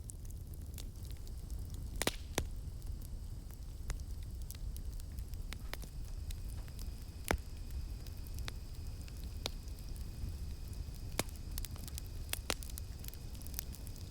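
Campfire crackling: scattered sharp pops and snaps over a steady low rumble of the burning fire. A faint, high, steady drone of cicadas comes in after about two seconds.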